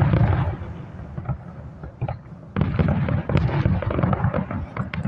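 Fireworks display: a big aerial burst booms right at the start and another about two and a half seconds in, each with a rolling rumble and many sharp crackling pops between.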